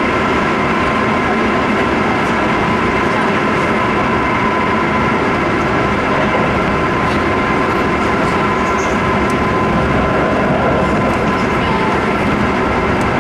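Cabin noise inside a Keisei 3700 series electric train running at speed: a steady rumble of wheels on the rails, with a few steady tones over it.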